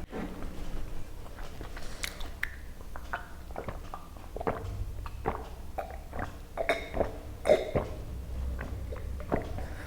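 Close-up eating sounds: wet, irregular mouth smacks and chewing clicks of someone eating curried chicken and rice.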